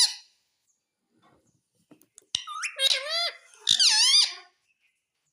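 Pet parrot talking: two short, high-pitched, squeaky speech-like calls, the first about two seconds in and the second a second later.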